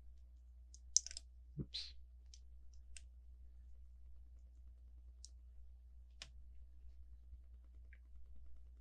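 Plastic LEGO pieces clicking and tapping against each other while being handled, a handful of sharp, separate clicks, the loudest about a second in.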